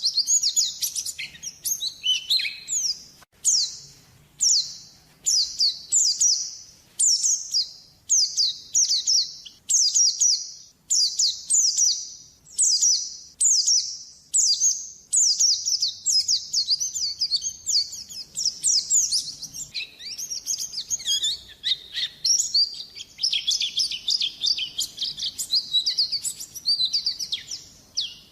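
White-eye (pleci) lure call: high, quickly falling chirping phrases about once a second. In the last third it runs into a busier, near-continuous chatter. It is used as a lure and master call for white-eyes.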